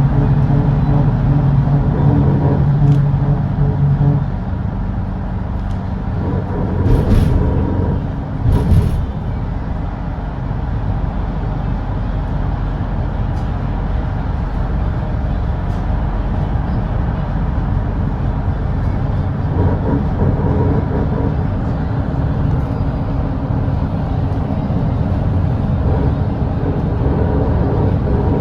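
Volvo B8RLE double-decker diesel bus running at highway speed, a steady engine drone mixed with road noise. The engine tone is strongest for the first four seconds, then eases. Two short, loud noisy bursts come about seven and nine seconds in.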